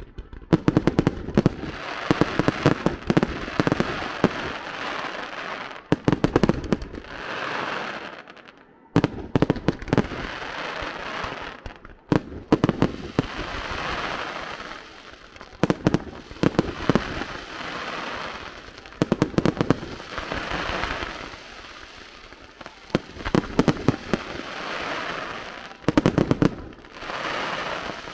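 Fireworks display: volleys of sharp bangs every two to three seconds, each followed by a spell of crackling as the shells burst.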